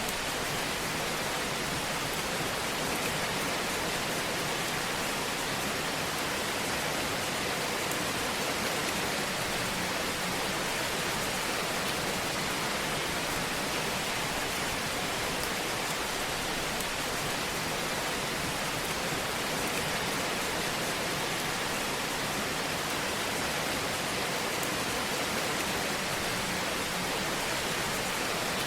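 Fire burning in a fireplace: a steady, even hiss with no distinct pops standing out.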